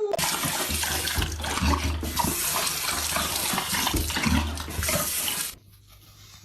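Running water, like a tap pouring, for about five seconds, cutting off suddenly about a second before the end.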